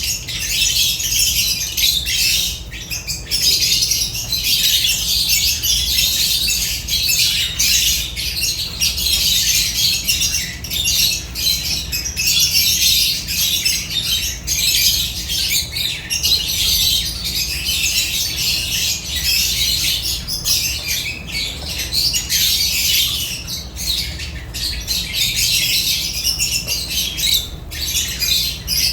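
A flock of lovebirds chattering and squawking without pause, a dense, high-pitched mix of many overlapping calls.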